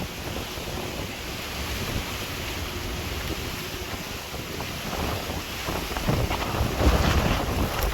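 Wind buffeting the microphone in uneven gusts over a steady rushing noise, with the strongest gusts near the end.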